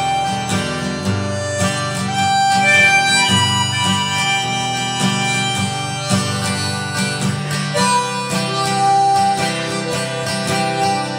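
Harmonica playing held notes over strummed acoustic guitar: a blues-tinged duet.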